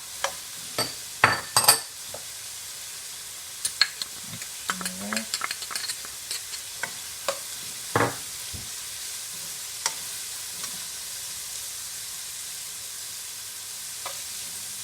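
Chopped carrots, bell peppers, onion and garlic sizzling steadily in a wok, with sharp clicks and knocks of a utensil against the pan as they are stirred and seasoned, one louder knock about eight seconds in.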